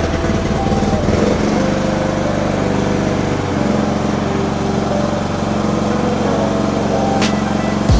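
Mini skid steer's small engine running steadily, its pitch shifting slightly about halfway through, with a sharp click near the end.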